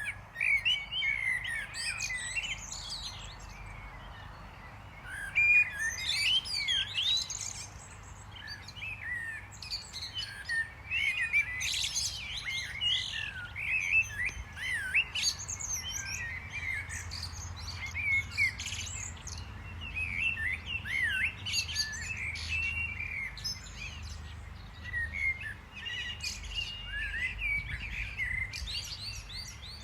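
Several small songbirds chirping and twittering, with quick overlapping high notes throughout and a low steady rumble underneath.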